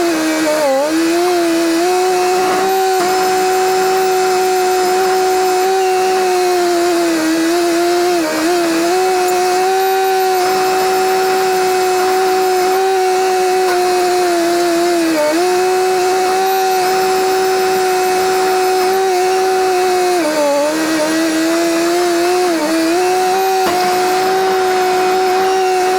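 Komatsu D21P bulldozer running at high revs with a steady whine. The pitch sags briefly several times as the machine takes load while pushing, then recovers.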